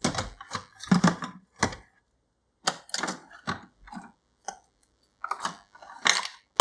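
Several short clusters of sharp clicks and clatters: ice cubes going into a tumbler and a K-cup pod being loaded into a Keurig K-Elite coffee maker, its lid snapping open and shut.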